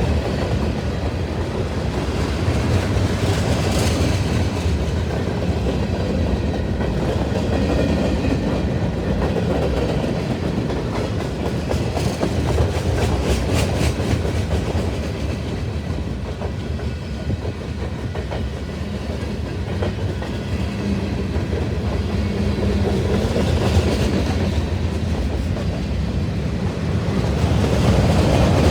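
A passing train: a steady low rumble of rolling cars, with wheels clicking over rail joints.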